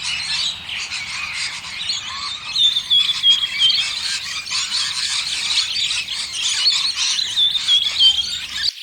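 A dense chorus of many birds chirping and squawking together, short high calls overlapping continuously. Near the end it cuts off abruptly, and quieter, evenly repeated chirps follow.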